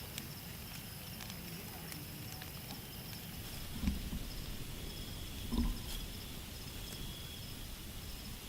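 Crickets chirping in a steady high trill over outdoor background noise, with two short low thumps about four and five and a half seconds in.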